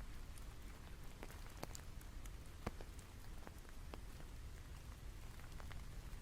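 Rain falling, a steady soft hiss with scattered sharp drop hits, a few a second.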